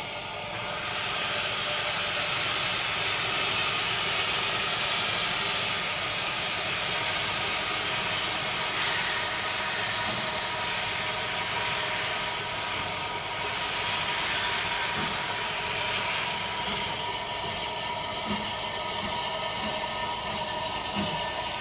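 Steam locomotive No. 2150 'Mardy Monster' letting off a loud, steady hiss of steam that starts about a second in and stops abruptly near the end. Quieter running of the locomotive carries on after it.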